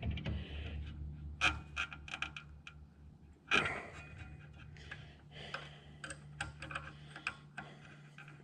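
Metal hand tools clicking and clinking as a socket wrench and sockets are handled under a mower, in scattered sharp taps with a bigger clatter about three and a half seconds in, over a low steady hum.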